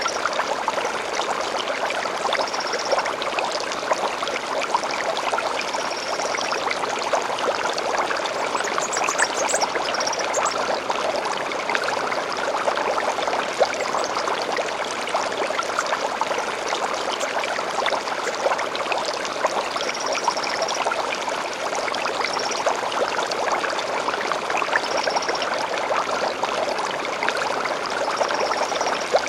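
A shallow stream flowing and splashing steadily, with small birds chirping over it in short repeated high phrases every few seconds and a brief higher trill about nine seconds in.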